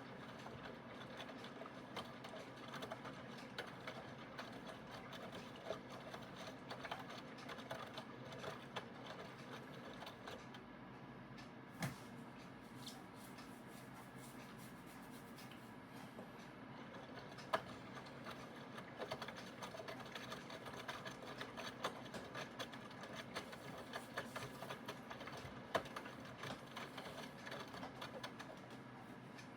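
Aidoo 1 kg mini washing machine running mid-cycle: its direct-drive motor hums steadily under a stream of irregular small clicks and ticks, with a few sharper knocks.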